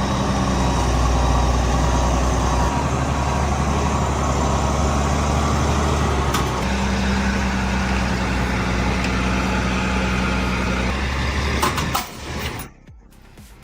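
Heavy engine running steadily for about twelve seconds. Near the end it cuts off abruptly to a much quieter background.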